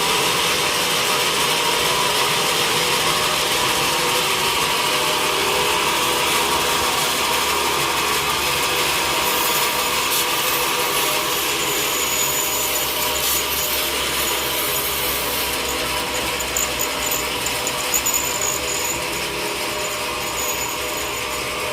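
Sawmill saw running through timber, a steady dense noise that eases slightly over the last few seconds, with a few short knocks about 18 seconds in.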